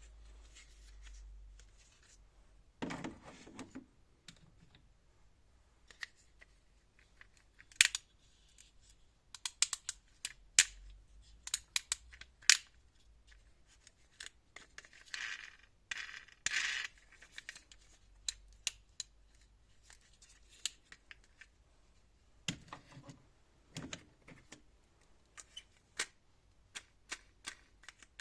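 Irregular sharp clicks and taps of small hard plastic objects being handled, with a brief rustle about halfway through and a few dull knocks.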